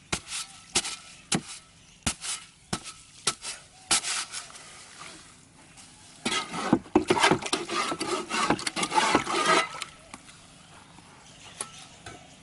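Hand tools knocking and scraping while cement is mixed by hand: a dozen or so sharp knocks over the first few seconds, then a few seconds of dense, gritty scraping and rattling.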